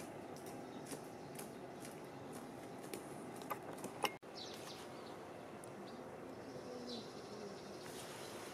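Outdoor ambience of birds chirping in short scattered calls over a steady low murmur. A couple of sharp clicks come just before four seconds in, followed by a momentary dropout.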